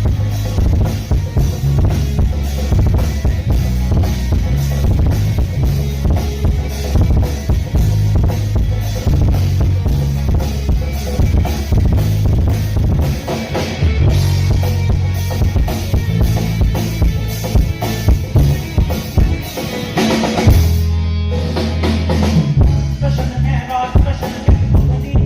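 Live band playing the song with the drum kit to the fore, bass drum and snare keeping a steady beat over keyboard and percussion. About twenty seconds in, the beat breaks briefly under a held bass note before the groove resumes.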